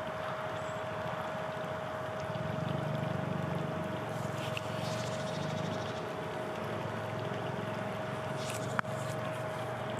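River water running over stones, a steady rush that swells a little a few seconds in. A constant thin tone runs under it, and a single sharp click comes near the end.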